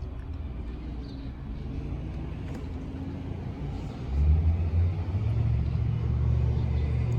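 A low steady rumble, with a louder low hum like a nearby engine setting in about four seconds in.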